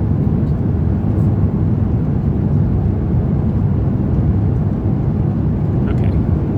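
Steady low rumble of an Airbus A350-900's cabin, the engine and airflow noise heard from a passenger seat.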